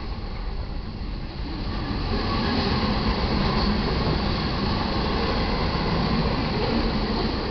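Freight train of covered hopper cars rolling past: a steady rumble and rattle of wheels on rail that grows louder about two seconds in.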